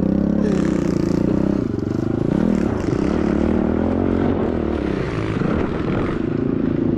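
Small single-cylinder four-stroke pit bike engine running while the bike is ridden, its pitch rising and falling with the throttle.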